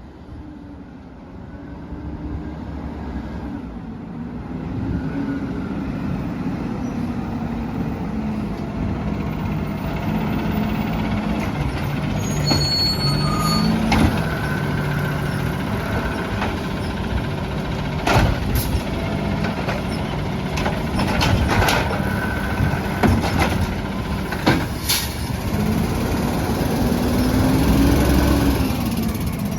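Peterbilt 320 garbage truck's engine running, growing louder over the first several seconds, its pitch rising and falling as it revs. Several sharp bangs come through in the second half, with a brief high squeal just before them.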